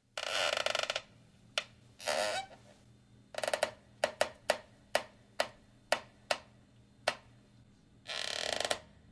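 Old chair creaking. There are long strained creaks at the start, around two and three seconds in, and near the end, with a string of short sharp creaks between them.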